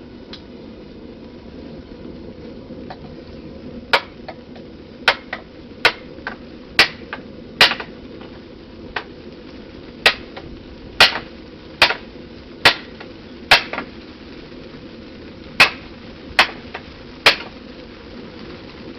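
Blacksmith's hand hammer striking hot steel on an anvil while forging knife bevels: about fifteen sharp blows at roughly one a second, many followed by a light rebound tap, over a steady rumble.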